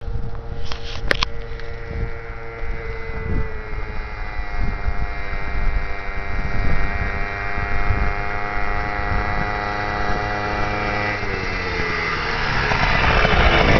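Small single-cylinder minibike engine running at a steady pitch, then dropping in pitch about eleven seconds in and growing louder near the end as the bike comes close.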